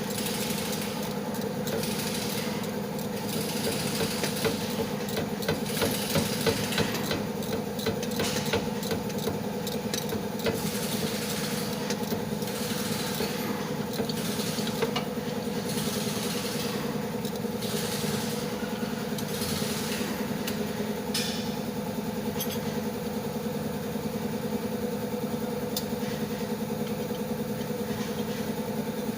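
A steady mechanical hum holding one pitch, with irregular metallic clicks and clatter of hand tools working over it.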